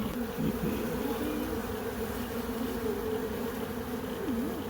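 Honeybees buzzing as a steady swarm hum, with single bees passing close by in wavering, rising and falling pitches.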